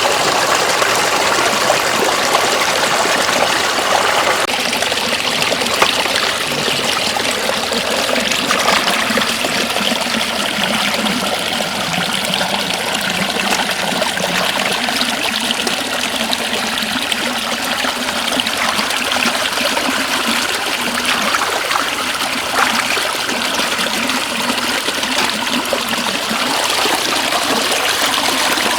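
Shallow floodwater flowing steadily, a continuous rushing and trickling of running water.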